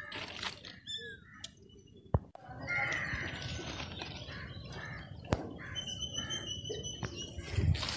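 Birds chirping: a run of short repeated calls, then a held high whistle near the end, with a few sharp clicks.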